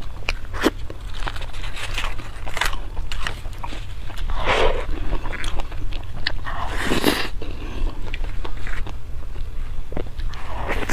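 Close-miked eating: a person chewing and biting seafood, with many short clicks and mouth noises and two longer, louder sounds about four and seven seconds in. A steady low hum lies underneath.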